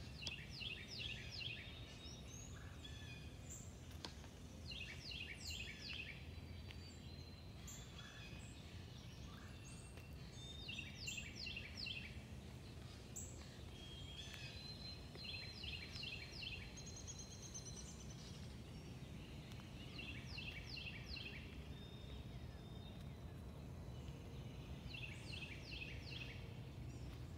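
A songbird singing a short phrase of quick, downward-slurred notes about a second long, repeated six times at roughly five-second intervals, with a few fainter calls from other birds in between, over a steady low background rumble.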